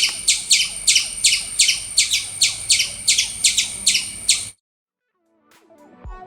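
Squirrel giving a rapid series of sharp, high alarm chirps, about four a second, each sweeping downward in pitch; the calling stops abruptly about four and a half seconds in, and music begins near the end.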